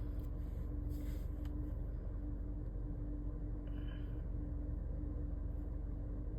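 Steady low hum inside a stationary car's cabin, with a faint steady tone running through it.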